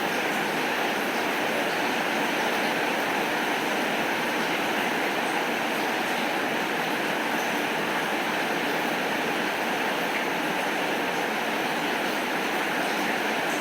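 Steady rainfall, an even hiss of rain with no thunder and no change in level.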